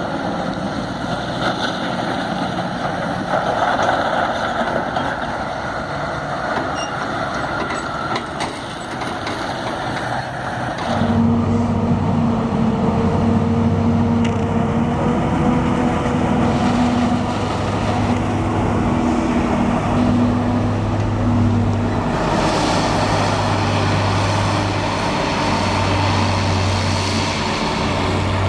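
Heavy diesel farm machinery running in a maize silage harvest. About eleven seconds in, the sound changes suddenly to a loud, steady engine drone.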